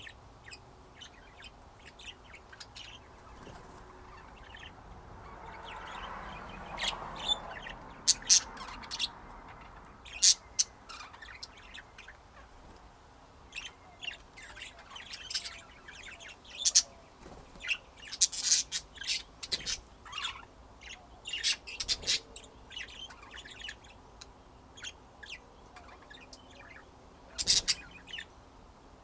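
Pet budgerigars chirping: many short, sharp chirps in irregular flurries, busiest in the second half and with a loud burst near the end.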